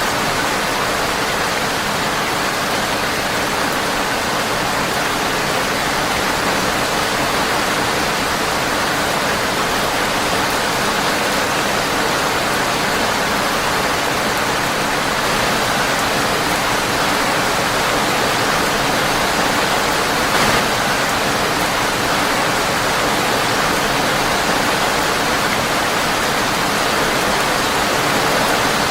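Steady rain on a windowpane, an even hiss with no let-up, with one brief pop about twenty seconds in.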